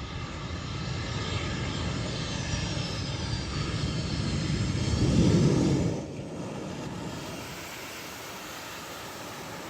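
Airplane engine noise with a whine gliding downward, growing louder to a peak about five seconds in, then dropping off sharply about a second later to a quieter steady rumble.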